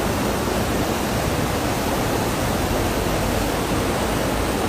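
Floodwater of the overflowing Grđevica River rushing in a steady, even roar.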